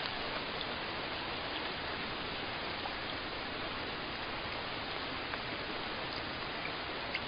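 Steady rain falling, an even hiss with occasional faint distinct drops.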